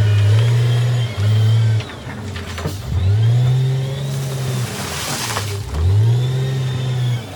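Heavy machinery diesel engine revving up and down about three times under load, with a few knocks and a brief rushing noise near the middle.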